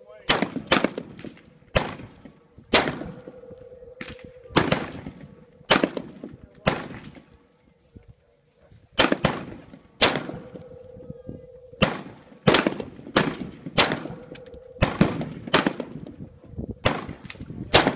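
Semi-automatic AR-15 rifle firing 5.56 rounds through a muzzle brake: about twenty sharp shots at an uneven pace of roughly one to two a second, with a pause of about two seconds past the middle. Each report trails off in a short echo.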